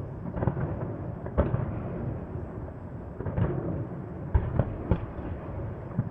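Fireworks salute: a string of irregular booming bursts, about half a dozen, over a continuous low rumble of further distant explosions and their echoes.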